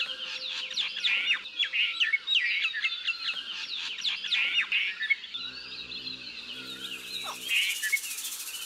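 Several small songbirds chirping and twittering together in a busy chorus of quick, sharply sweeping notes. A low hum comes in for about two seconds past the middle.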